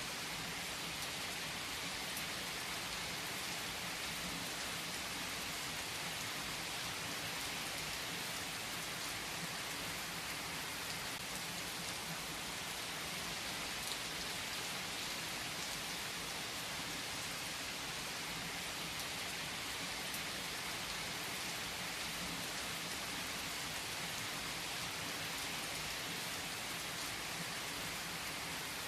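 Steady rain falling: an even, unbroken hiss with a few faint drop ticks scattered through it.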